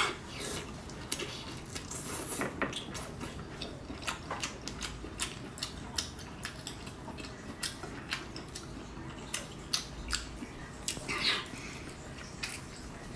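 Close-up eating sounds of cooked sea snail meat: wet chewing with many short, sharp, irregular mouth clicks, and one longer, louder sound near the end.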